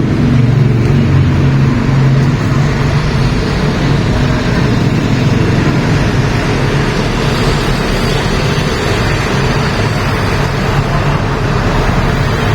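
Steady running noise of a motor vehicle, a constant low hum under an even rushing noise.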